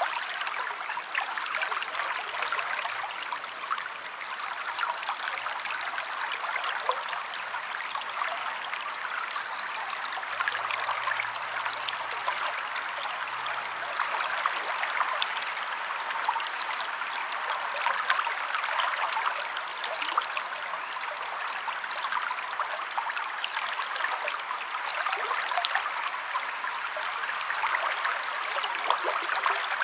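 Stream water flowing steadily over rocks, a continuous babbling and splashing rush. A few faint, high bird chirps come through a little after the middle and again near the end.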